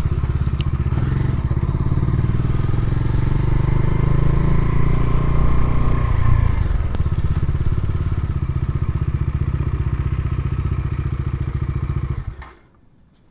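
Bajaj Dominar 400's single-cylinder engine running steadily while the motorcycle is ridden along the road, pulling a little harder through the middle. The sound cuts off suddenly near the end.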